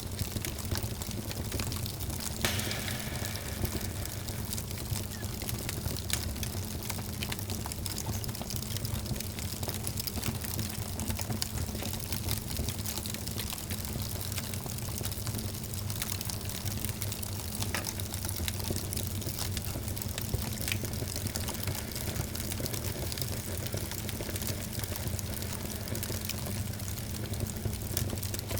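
Wood fire crackling with frequent small, irregular pops over a steady low rumble, and one sharper pop about two and a half seconds in.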